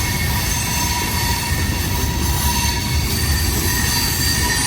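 A CSX freight train's cars rolling slowly past: a steady low rumble with thin, high squealing tones from the wheels held over it.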